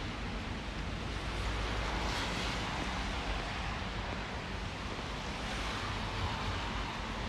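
Steady city street noise of traffic on a rainy day, with a low rumble and a passing vehicle's hiss swelling about two seconds in.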